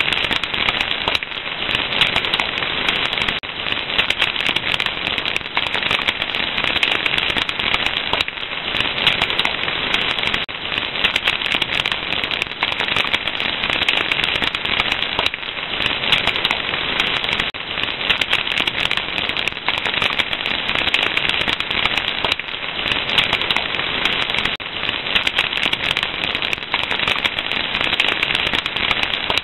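Fire crackling steadily: a dense, unbroken run of small pops and snaps over a hiss.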